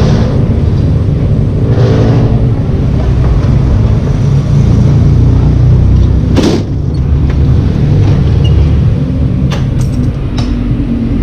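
Small two-stroke engine of a gas-powered stand-up scooter running under way, with a steady loud low rumble and a short burst of noise about six and a half seconds in.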